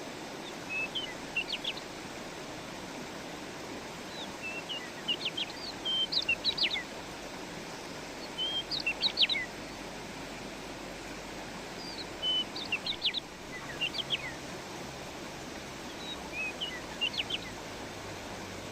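A songbird singing short phrases of quick, high chirps, repeated every few seconds, over the steady rush of a flowing stream.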